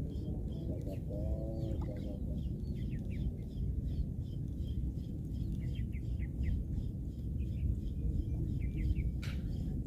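Small birds chirping in quick, repeated short notes over a steady low rumble, with one sharp click near the end.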